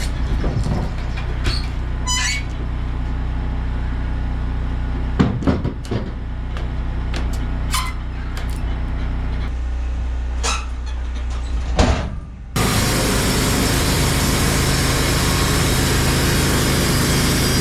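Wood-Mizer LT15 Wide sawmill's engine running steadily, with scattered knocks and clanks. About twelve and a half seconds in, the sound jumps abruptly to a much louder, even rushing noise of the mill running under load.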